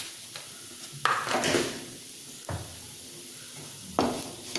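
Beetroot and potato mixture sizzling faintly as it fries in a pan, with three short clatters about a second and a half apart.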